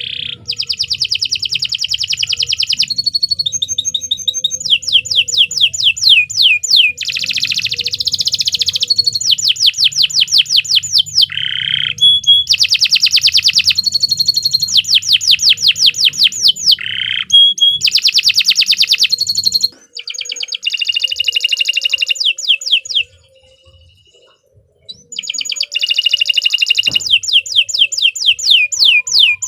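Domestic canary singing a long song of rapid trills and repeated notes. It breaks off briefly about two-thirds of the way through, then starts again.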